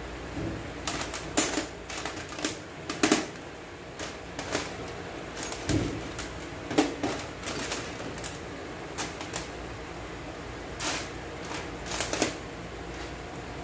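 Irregular clicks and clacks of transmission parts and hand tools being handled and set down during an automatic transaxle rebuild, some two dozen sharp ticks at uneven spacing.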